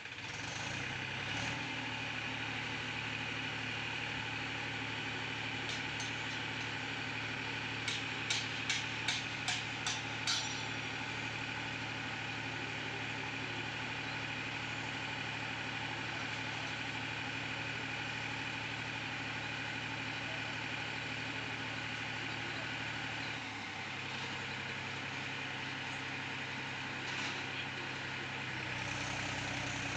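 Mahindra tractor's diesel engine running steadily, its pitch dipping about three quarters of the way through and climbing again near the end. About a third of the way in, a quick run of about six sharp clicks.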